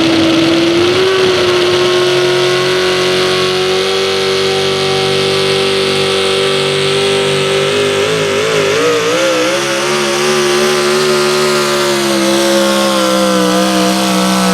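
Competition pulling vehicle's engine running flat out at high revs through a pull, one steady high engine note that wavers briefly about eight seconds in and sags slightly near the end.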